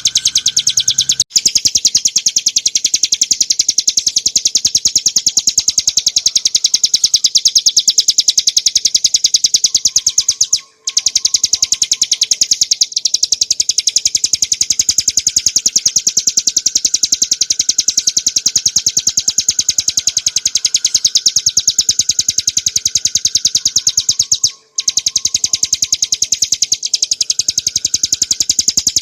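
Ciblek gunung, a small prinia, singing a long, very rapid, high-pitched trill of repeated notes. The trill breaks off briefly three times.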